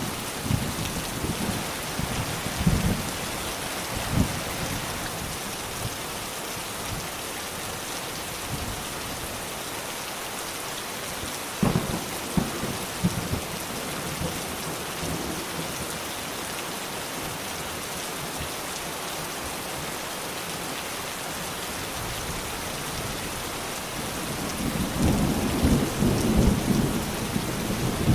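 Steady rain falling in an even hiss, with low rolls of thunder at the start, briefly near the middle, and building again near the end.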